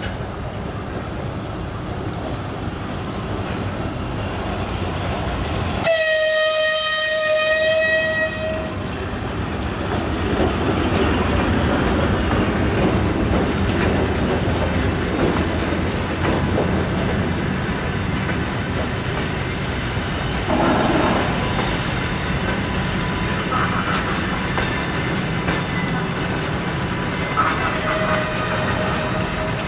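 EP1M electric locomotive and passenger train arriving and rolling past. About six seconds in, the locomotive's horn sounds once for nearly three seconds as one steady high note. After that, the coaches roll by with wheel rumble and rail clatter as the train pulls in.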